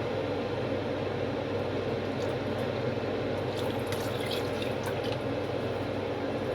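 Vinegar being poured for the pickling brine: a steady liquid pour with a few light splashes, over a constant low hum.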